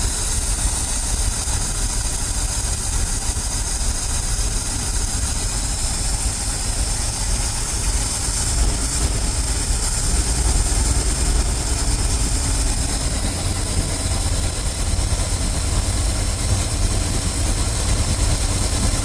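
Ford F350 dump truck's carbureted engine idling steadily but rough, its carburetor running rich and trying to boil fuel over.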